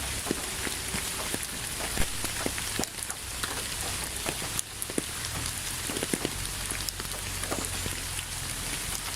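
Steady rain falling, with many separate drops tapping sharply through an even hiss.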